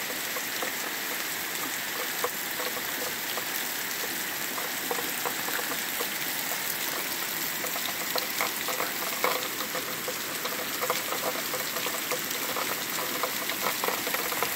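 Steady heavy rain falling on leaves and wet ground: an even hiss with many separate close drop hits, which become more frequent from about halfway through. The downpour is thickening.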